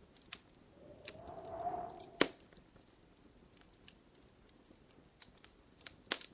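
Wood fire crackling in a fireplace: scattered small pops, with a sharp loud pop about two seconds in and another near the end. A faint tone swells and rises slightly for about a second just before the first loud pop.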